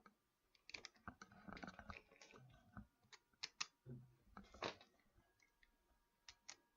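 Faint scattered clicks and light knocks of CPU water cooler mounting parts being handled and clipped into place.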